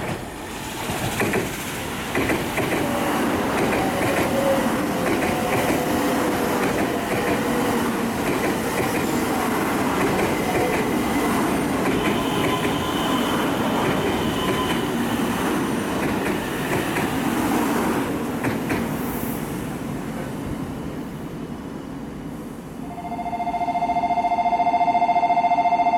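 E2 series Shinkansen train running into the station, its wheels rumbling and clicking while a motor whine falls slowly in pitch as it slows. Near the end a platform departure bell rings steadily.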